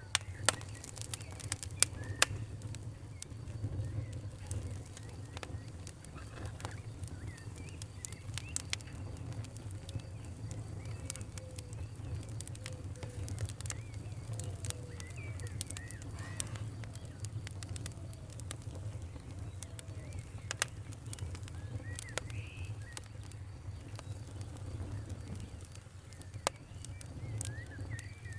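Wood fire crackling with irregular sharp pops, a few loud ones in the first couple of seconds, over a steady low rumble. Small birds chirp faintly now and then.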